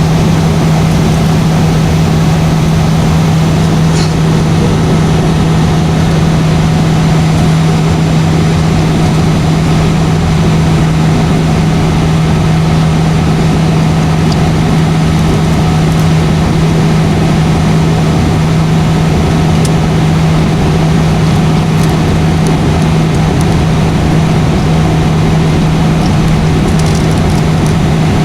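Steady drone of an airliner heard inside the passenger cabin: engine and airflow noise with a constant low hum under a broad rushing sound.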